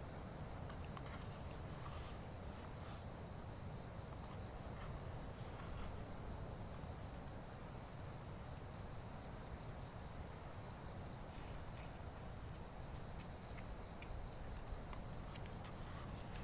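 Steady high-pitched chorus of insects, crickets or cicadas, over a low rumble, with a few faint clicks.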